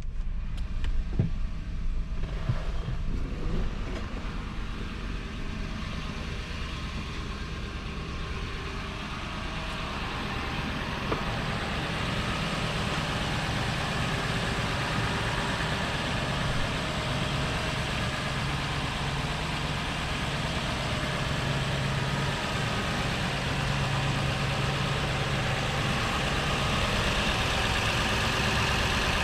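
2005 Toyota Land Cruiser's 4.7-litre V8 idling steadily just after a cold start, with a few knocks in the first seconds. The sound grows gradually louder and hissier from about ten seconds in, as the engine bay is approached.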